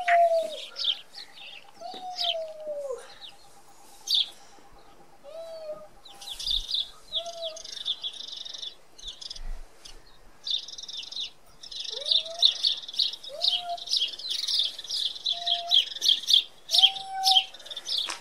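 Small birds chirping and twittering in quick runs, busiest in the second half, with a few lower, arched whistled call notes scattered through.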